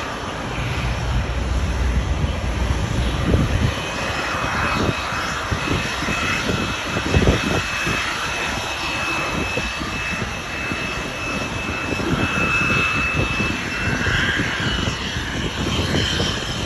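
Pratt & Whitney PW1100G geared-turbofan engines of an Airbus A320neo (A320-271N) running, heard as a steady jet noise. A deep rumble fades after the first few seconds and a thin high whine holds from about four seconds in. Wind buffets the microphone.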